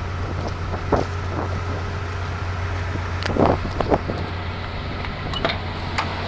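Case 210 excavator's diesel engine idling with a steady low hum, with a few short knocks and clicks scattered through.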